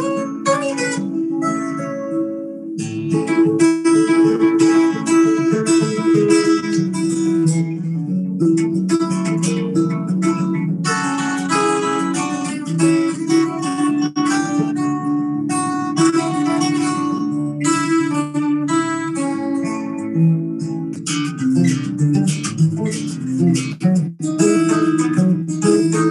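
Guitar playing, with plucked and strummed chords and single notes and no singing.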